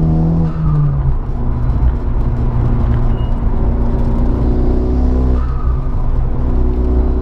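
Honda Civic Type R FK8's 2.0-litre turbocharged four-cylinder engine running hard on track. The engine note drops about a second in, holds fairly steady, and shifts again a little past halfway.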